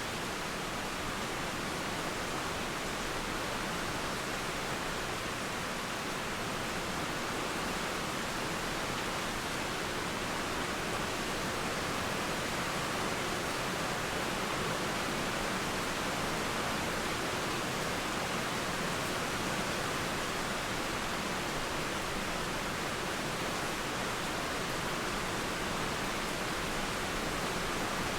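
Steady rain and flowing river water blending into an even, unbroken hiss.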